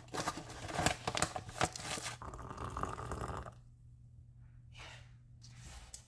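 Handling noise: crinkling and tearing with scattered sharp clicks for about three and a half seconds, then it drops off to a steady low hum with a few faint knocks.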